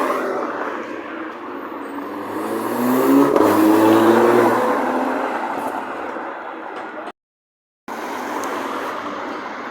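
Car engine accelerating, its pitch rising and loudest about three to four seconds in. The sound cuts out completely for under a second near the seven-second mark.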